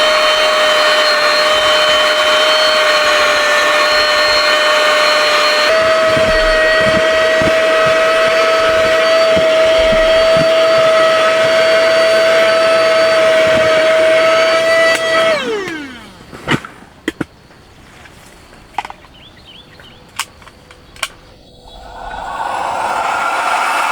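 A small electric motor running with a steady high whine, its pitch stepping up slightly about six seconds in. It is switched off about fifteen seconds in and winds down, a few sharp clicks follow, and it starts up again near the end.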